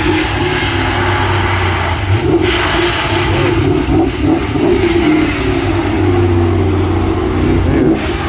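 Car engine running loudly with a steady low drone, its revs wavering up and down.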